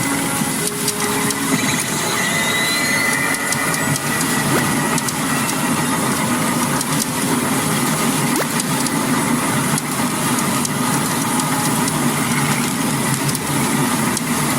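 Pachinko parlor din: a steady, dense clatter of steel balls and machines, with many small clicks throughout.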